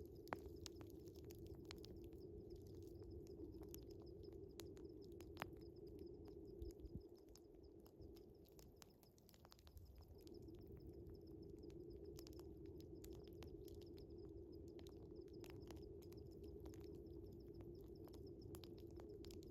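Wood fire crackling with scattered sharp pops, over a steady high chirping of night crickets. A low steady drone runs underneath and drops out for a couple of seconds about eight seconds in.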